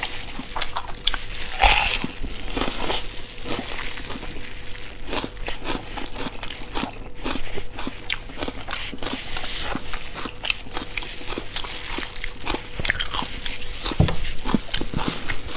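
Close-miked biting and chewing of braised pork large intestine, a dense run of small clicking, wet mouth sounds, with a louder bite about two seconds in and a low thump near the end.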